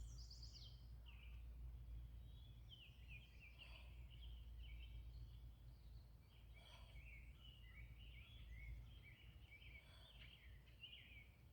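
Faint birdsong, rapid chirping phrases over a low, steady outdoor rumble.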